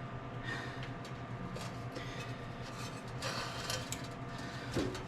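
Scattered scrapes and knocks of hands and parts being handled while working on a truck engine, over a steady low hum.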